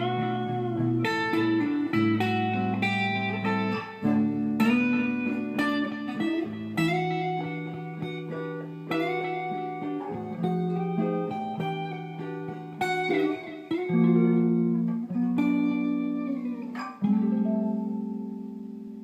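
Guitar music without singing: picked notes and chords, each ringing and dying away, ending on a held chord that fades out near the end.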